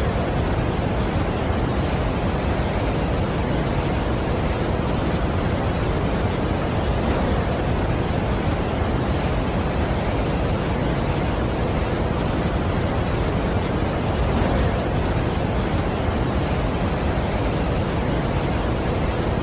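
Steady, unbroken rush of a large waterfall: an even wash of water noise with no distinct events.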